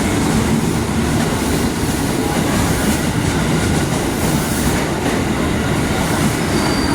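A train running past on the rails: a loud, steady rumble of steel wheels on track, with a faint high wheel squeal near the end.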